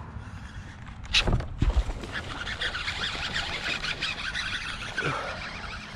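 A small snakehead being fought and landed at a kayak: a sharp knock with low thumps about a second in, then several seconds of rapid crackling splashing and rattling.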